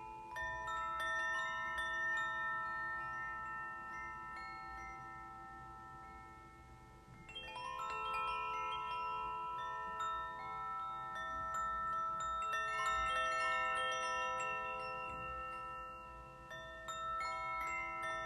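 Steel tongue drum (glucophone) struck in loose flurries of notes. The notes ring on and overlap into a sustained, chime-like wash, with a fresh cluster of strikes about half a second in, another near the middle and another near the end.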